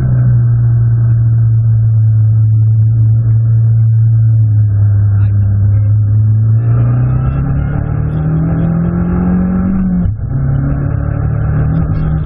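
Abarth 500 Assetto Corsa race car's turbocharged 1.4-litre four-cylinder, heard from inside the cabin. The engine holds steady revs for several seconds, then its pitch rises as the car accelerates, cuts briefly about ten seconds in at an upshift, and pulls again at lower revs.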